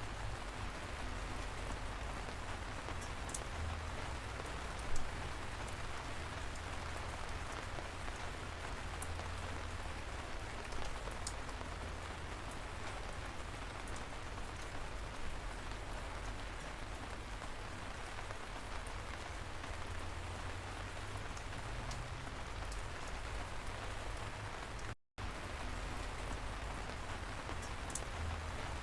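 Steady light rain falling, a gentle drizzle with occasional sharper individual drops ticking through. A split-second gap of silence cuts in about 25 seconds in.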